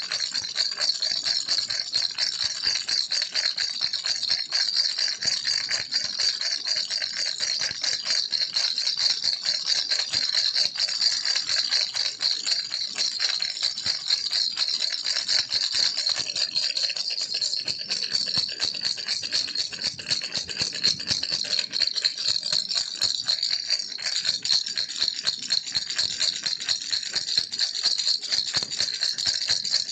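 Baby rattle shaken continuously, a dense, fast clatter of small beads with a bright, high sound.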